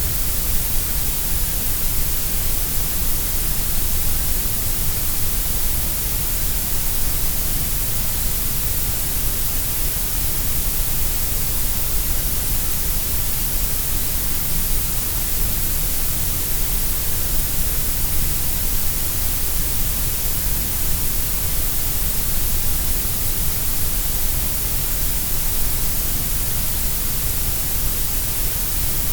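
Synthesised grey noise: a steady, unchanging hiss spread across all pitches, shaped so that the lows and highs are fuller and the middle is thinner.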